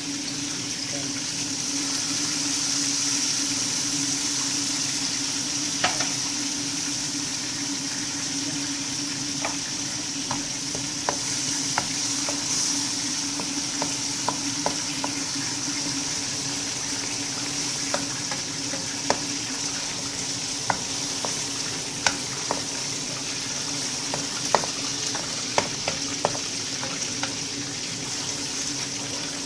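Tomato purée sizzling in a frying pan with sautéed onion, a steady hiss, with a cooking utensil clicking and scraping against the pan now and then from about six seconds in.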